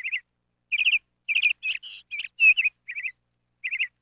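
Small birds chirping in a tree: repeated short bursts of three or four quick, high notes, coming roughly every half second to second, with one looping whistled note about halfway through.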